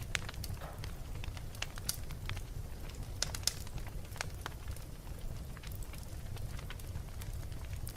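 Wood fire burning in a fireplace: a steady low rumble of flames with irregular sharp crackles and pops, a few louder pops around the middle.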